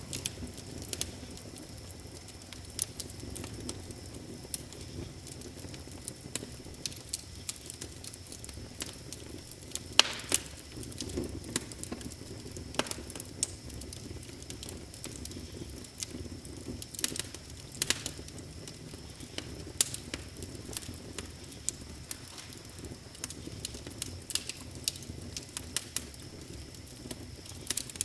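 Wood fire crackling in a fireplace: irregular sharp pops and snaps over a low steady rush of flames, with one louder pop about ten seconds in.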